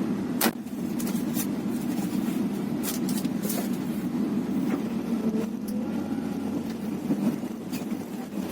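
Hyundai 330LC excavator's diesel engine running steadily, with several short sharp clicks or knocks.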